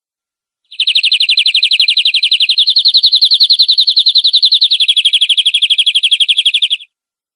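Canary singing one long, fast rolling trill of evenly repeated high notes. It steps slightly higher about two seconds in, drops back a little about five seconds in, then stops.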